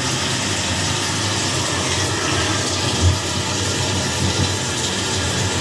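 Recorded thunderstorm played loudly through a TV: a steady hiss of heavy rain, with a short low thump about three seconds in.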